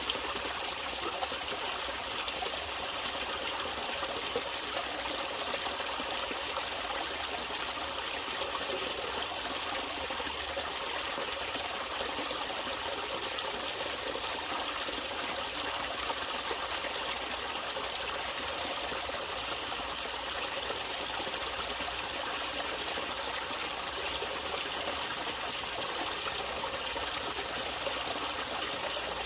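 Natural running water, a stream trickling steadily with an even, unbroken rush.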